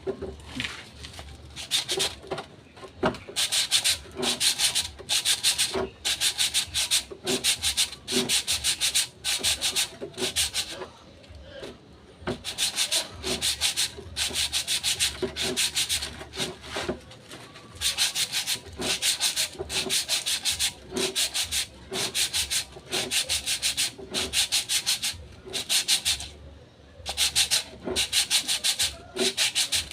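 Sandpaper rubbed by hand against a brake drum in quick back-and-forth strokes, about two a second, with two short pauses.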